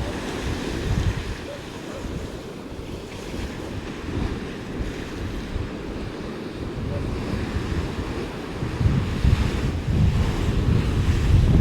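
Storm waves of the North Sea crashing and smashing down on each other, very loud, mixed with gale-force wind buffeting the microphone. The wind rumble grows stronger and gustier near the end.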